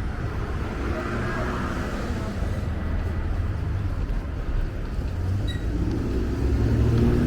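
City street traffic: a steady rumble of vehicles, with one engine rising in pitch and growing louder near the end as it accelerates past.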